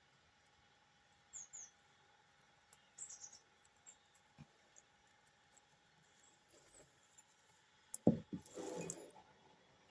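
Faint, short, high chirps from small birds, a few at a time, then a brief rustling clatter with a few knocks near the end.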